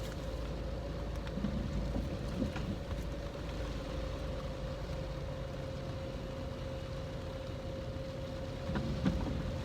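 Steady low rumble of a car heard from inside the cabin, with a constant hum and a few faint soft knocks.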